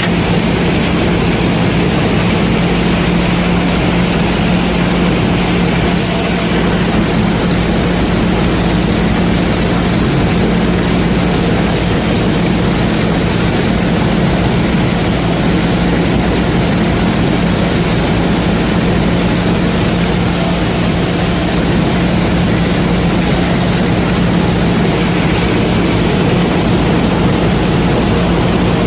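Combine harvester running steadily under load while harvesting corn: a loud, unchanging engine hum with the constant mechanical noise of the machine over it.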